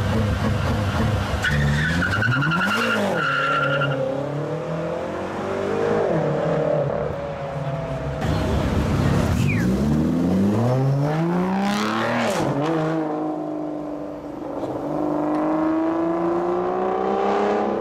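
Supercar engine revving hard several times, its pitch sweeping up and dropping back, with a tyre squeal about two seconds in. Near the end the engine climbs steadily in pitch as the car accelerates.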